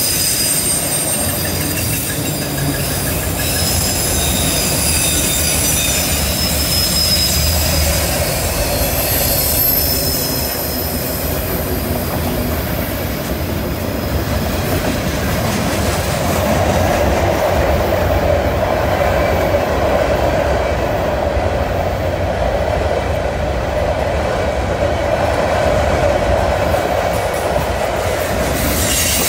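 Freight cars rolling past through a curve. The wheels squeal against the rails in thin high tones over a steady rumble, and the squeal fades about halfway through.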